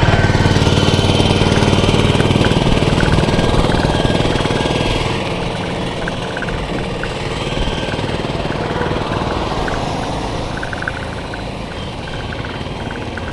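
A motor vehicle's engine running close by, loudest in the first few seconds and then fading. Bursts of rapid ticking run through the second half.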